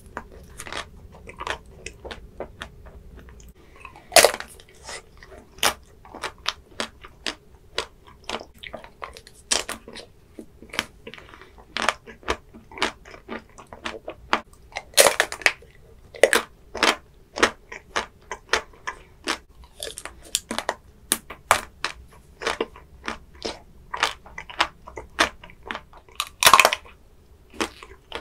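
Close-miked chewing and biting of chocolate-coated ice cream bars, the hard chocolate shell cracking and crunching in a dense run of sharp crackles, with a few louder crunches about four, fifteen and twenty-six seconds in.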